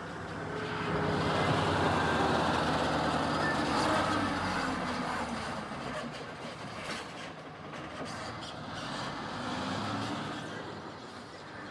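Keikyu electric train passing close by. Its running noise swells about a second in and then slowly fades, with a few sharp clicks midway and faint gliding motor tones.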